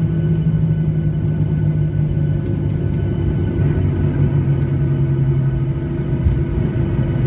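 Boeing 737-800 cabin noise: a loud, steady rumble of its CFM56 jet engines and airflow, with a low hum that steps down slightly in pitch about halfway through.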